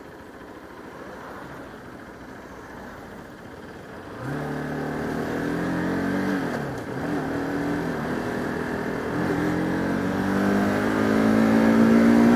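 Motorcycle engine, a Bajaj Pulsar RS200 single, with wind rush at first. About four seconds in it accelerates hard, rising in pitch through the gears with two upshifts, then pulls up to its loudest near the end.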